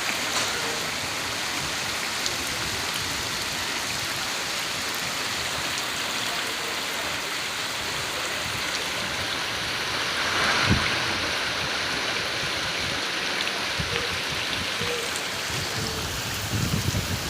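Heavy rain pouring steadily, a dense even hiss of rain and running water, with a brief louder gush about ten seconds in.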